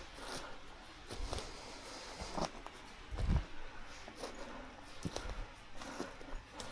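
Footsteps on the forest floor: irregular soft crunches and rustles, with a louder low thump about halfway through.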